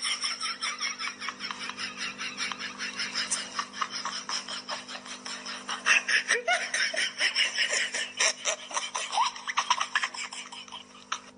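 Laughter in a long run of quick repeated bursts, over a faint steady hum, trailing off near the end.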